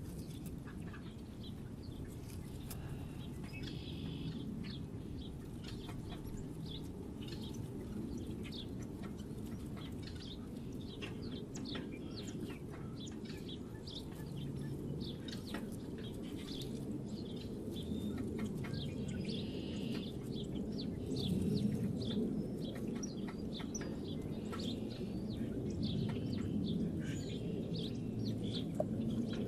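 Small songbirds chirping at a feeder: many short, high chirps and twitters throughout, over a steady low rumble.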